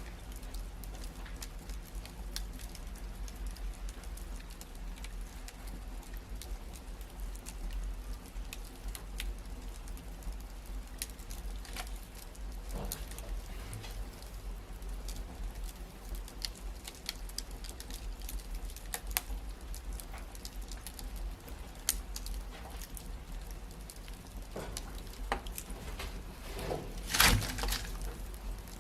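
Wood fire crackling in a fireplace: scattered sharp pops and ticks over a low steady rumble, with a brief cluster of louder pops near the end.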